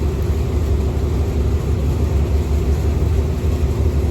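A boat's motor running with a steady low rumble, without change in pitch.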